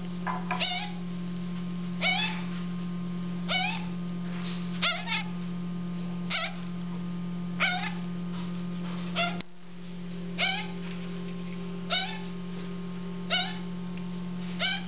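African grey parrot chicks begging for food: a short call rising in pitch, repeated about every one and a half seconds over a steady low hum.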